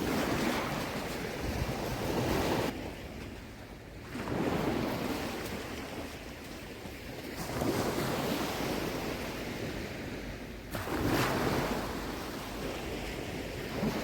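Small waves washing in the shallows in four surges, each swelling and fading over about three seconds, with wind on the microphone.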